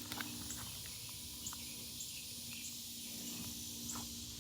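Faint outdoor garden ambience: a steady high hiss of insects with soft chirps repeating a little under twice a second, and a few light clicks.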